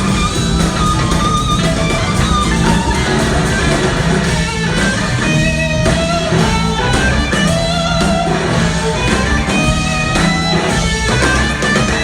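A live rock band playing an instrumental passage: an electric guitar carries a sustained, wavering lead line over steady bass and drums.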